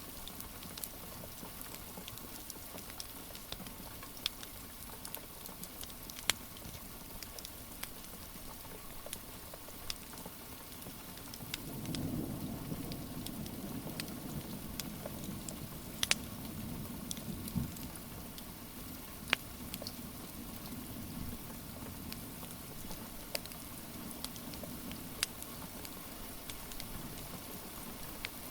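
Steady rain hiss with a wood fire crackling, sharp pops scattered throughout. About twelve seconds in, a low rumble swells up and fades away over roughly ten seconds.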